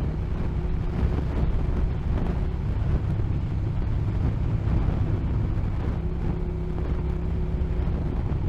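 Motorcycle engine running at a steady cruise with wind rumbling over the helmet microphone, no change in speed.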